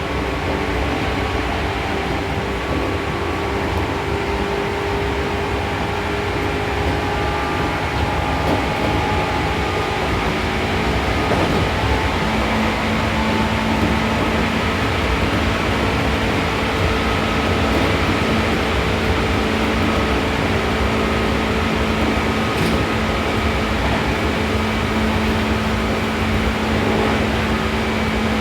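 Seibu New 2000 series electric train heard from inside the car while running between stations: steady rolling and running noise with a motor and gear hum. A low steady hum comes up about twelve seconds in and holds.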